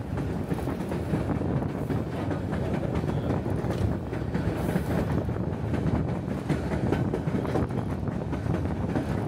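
Narrow-gauge passenger railcar rolling along the track: a steady rumble of wheels on rails with continuous rattling and clickety-clack.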